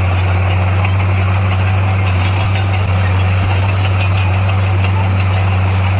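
Diesel engine of heavy earthmoving equipment running steadily at a constant speed, with a deep even hum.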